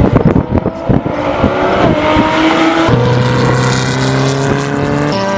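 Race car engine revving hard at full throttle with sharp crackles, over background music with steady held notes that take over about halfway through.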